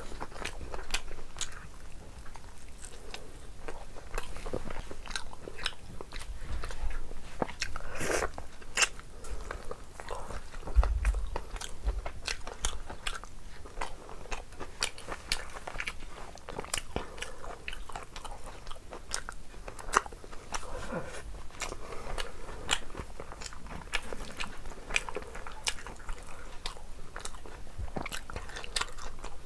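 A person chewing and biting food with many sharp, irregular mouth clicks, and a low bump about eleven seconds in.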